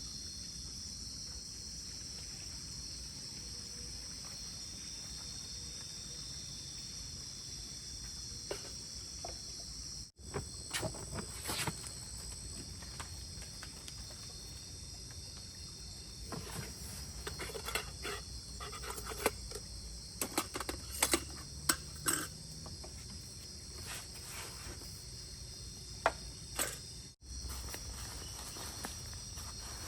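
Steady high-pitched chorus of night insects, with scattered clicks and knocks of things being handled through the middle of the stretch.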